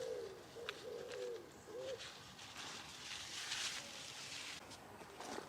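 A pigeon or dove cooing: a run of soft repeated coo notes that stops about two seconds in, followed by a couple of seconds of rustling.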